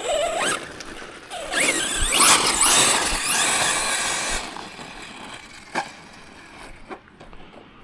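Tekno MT410 2.0 1/10 electric monster truck driving off, its 2500 kV brushless motor on 4S whining up and down in pitch with a rushing noise. The sound is loudest for about three seconds from about a second and a half in, then dies down.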